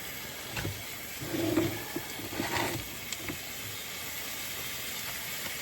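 Steak pieces frying in a skillet of garlic butter: a steady sizzle, with a few light clicks and knocks, the loudest about a second and a half and two and a half seconds in.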